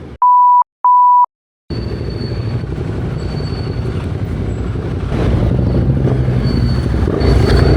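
Two short, loud, steady beeps, then after a brief silence a motorcycle engine running with a low rumble, which grows louder about five seconds in.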